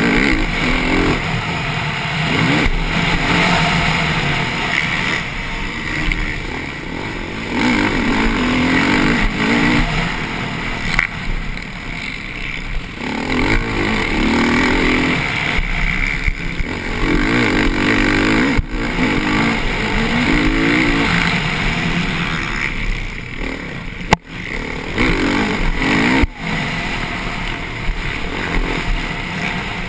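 Motocross bike engine heard from on board, revving up hard and falling off again over and over as the rider accelerates, shuts off and gets back on the throttle around the track. There are two short breaks with knocks near the end.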